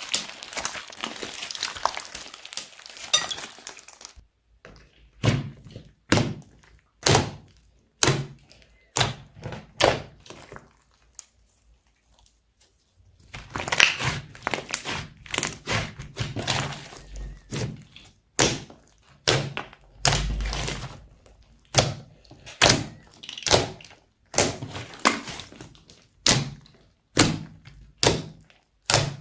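Slime being worked by hand: first a dense crackling, then a run of sharp, separate squishy pops about once a second. They pause briefly midway and then carry on a little faster.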